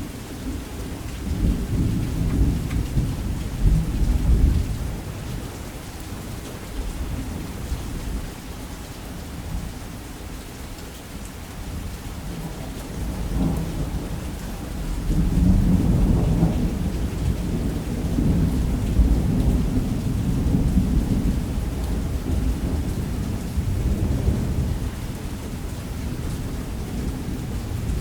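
Thunderstorm: steady heavy rain with long, low rolls of thunder that swell a few seconds in and again from about halfway through.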